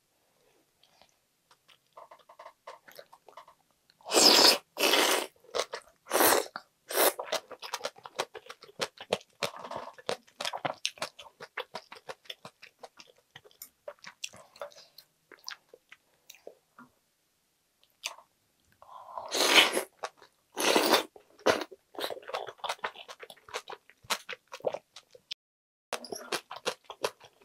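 Close-miked chewing of aged kimchi (mukeunji). Loud crunches come in two spells, about four to seven seconds in and again around twenty seconds in, with many softer wet mouth clicks between them and a short quiet pause.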